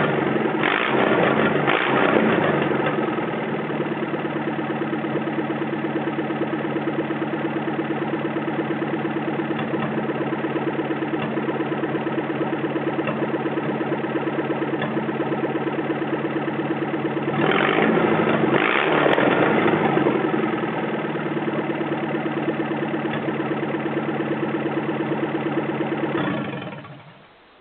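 Toyota 12R four-cylinder engine running with no exhaust fitted: revved briefly at the start and again about two-thirds of the way through, idling steadily in between, then shut off near the end, dying away within about a second.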